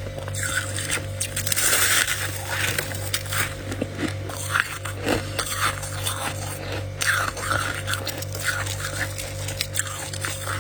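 Freezer frost being scraped up by hand and bitten, with crisp crackling crunches coming in quick irregular bursts over a steady low hum.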